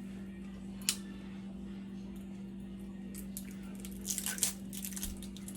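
Wet squishing of raw chicken being worked through a wet jerk marinade, with a sharp click about a second in and a burst of squishing around four seconds in, over a steady low hum.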